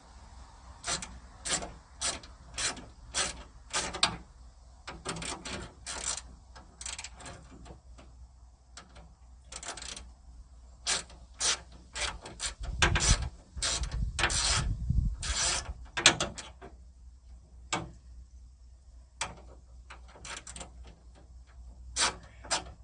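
Hand ratchet wrench clicking in short repeated strokes as it works the 7/16 door bolts of a 1979 Pontiac Trans Am, with heavier metal knocks and a low rumble for a few seconds past the middle.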